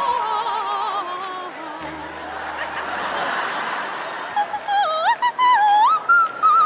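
A woman singing a slow song with a wide vibrato over a backing track. The audience laughs, and her voice comes back louder and climbs in pitch in the last couple of seconds.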